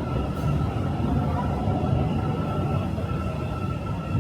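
Metro train running, a steady low rumble with a constant high whine over it.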